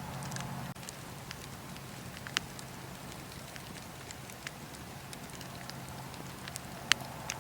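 Wood fire in a fireplace crackling: a steady hiss with scattered sharp pops, one louder pop about two seconds in and the loudest near the end.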